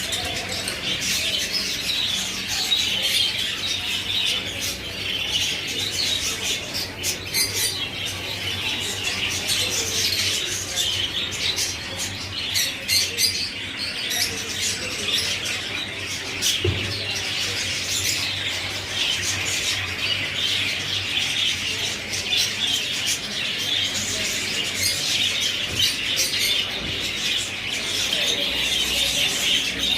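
Many small caged birds chirping and squawking together in a steady, dense chatter.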